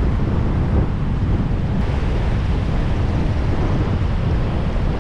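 Strong sea wind buffeting the microphone in a steady low rumble, with surf breaking on the beach behind it.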